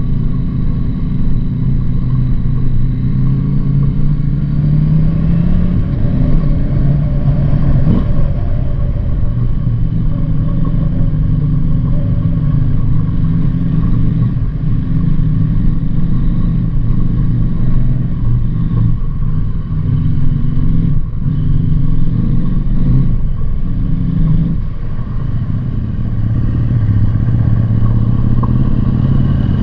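Motorcycle engine running under way, its note steady with small rises and falls as the throttle changes, and a few brief dips about two-thirds of the way through.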